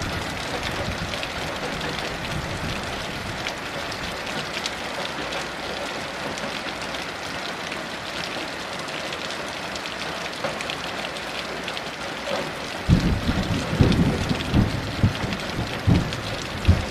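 Steady heavy rain falling in an even hiss. About thirteen seconds in, a low rumble of thunder comes in, with several loud surges.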